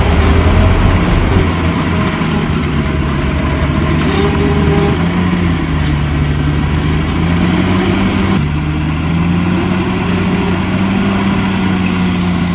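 Heavy diesel engine of a bulldozer or dump truck running steadily, its speed rising and falling a little a few times, with a distinct shift about two-thirds of the way through.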